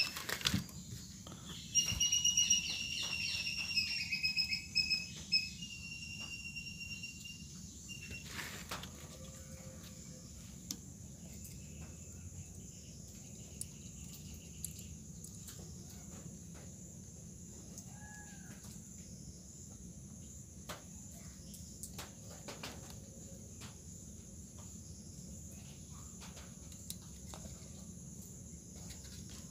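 A bird chirping in a quick run of high calls for several seconds near the start, with one more faint call later. Under it are scattered light clicks and taps of hands working at a circuit board, over a steady low hum.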